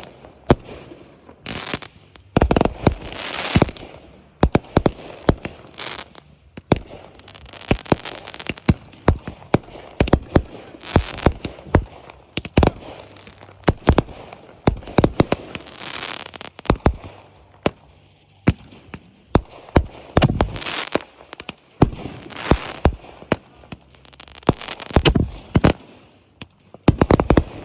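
Consumer fireworks going off in quick succession: sharp bangs of shells bursting, with crackling and hissing between them, several booms every second or so.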